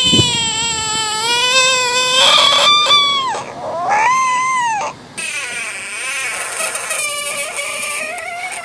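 An animal screaming in two long, wavering, high-pitched cries, the second shorter and arched in pitch, followed by a quieter, noisier stretch.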